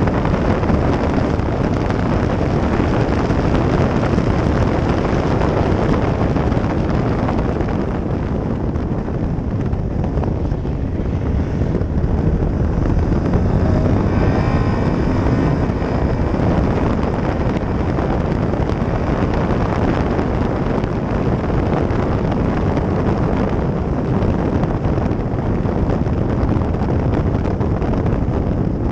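Caterham R400 race car running at speed, its engine noise under heavy wind buffeting on the microphone, with a faint rising engine note about halfway through.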